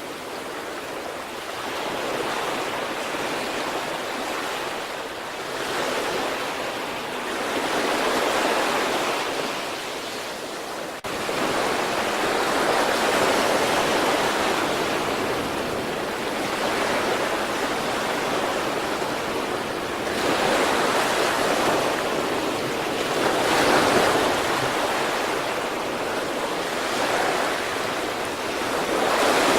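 Sea waves breaking and washing on the shore: a steady surf noise that swells and eases every few seconds.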